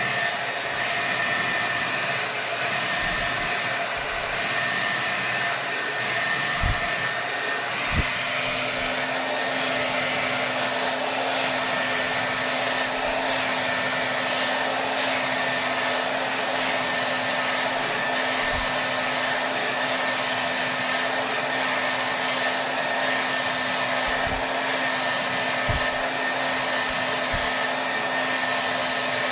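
Hair dryer running steadily on full power: an even rush of air with a constant motor whine. About 8 s in, a lower hum joins, and a few faint low bumps come and go.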